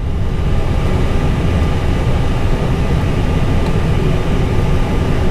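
Steady low rumble inside an Airbus A320 cockpit with the engines at idle, with a faint thin steady tone above it.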